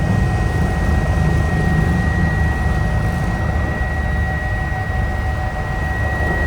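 Eurocopter EC145 helicopter in flight: steady rotor and turbine noise, a deep rumble under a constant high whine.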